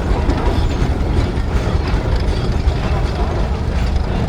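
Steam traction engines running in the arena, a steady low rumble.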